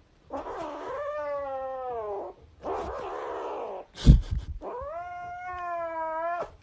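A cat yowling in long, drawn-out wailing calls, with a breathy hiss between the first two calls. A loud thump comes about four seconds in, just before the second yowl.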